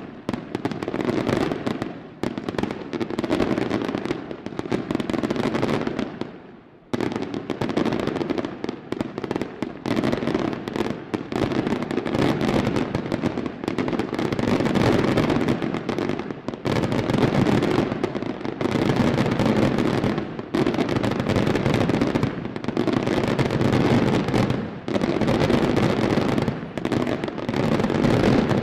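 Daylight fireworks display firing a dense, continuous barrage of bangs and cracks, with one brief lull about a quarter of the way in.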